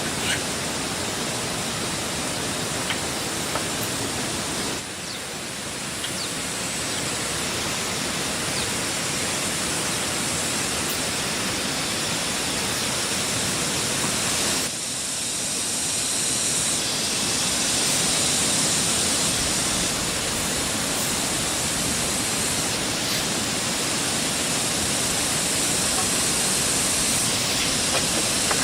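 Steady rushing noise with a few faint clicks, shifting abruptly about five and fifteen seconds in.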